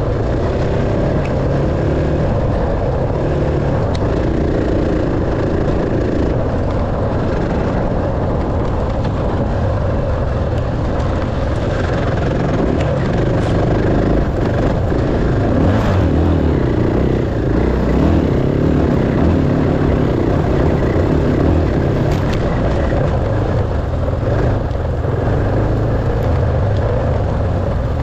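Dirt bike engine running as the bike is ridden off-road, its pitch rising and falling with the throttle, with a few scattered clicks.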